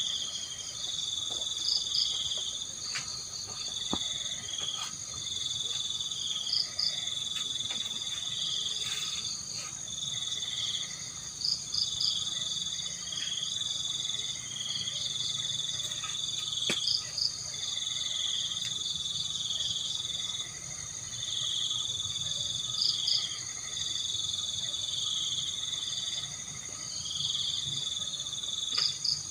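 Night insects, mostly crickets, chirping together: a high, steady trill, a lower chirp that pulses on and off about once a second, and short clusters of quick high notes about every five seconds.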